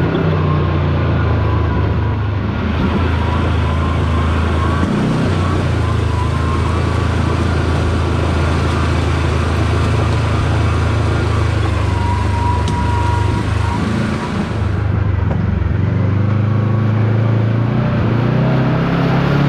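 Side-by-side UTV engine running under steady load while driving a gravel trail, with the rush of tyres and wind. The rushing hiss grows about three seconds in and falls away near fifteen seconds, where the engine note also shifts.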